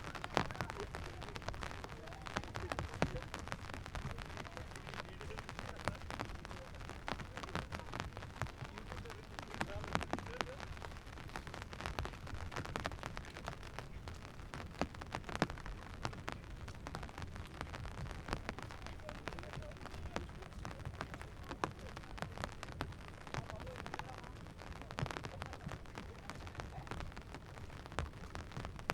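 Steady rain falling: a constant hiss with a dense patter of individual drops throughout.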